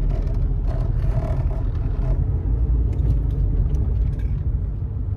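Car driving slowly over a rough road: a steady low rumble of engine and tyres with small scattered knocks.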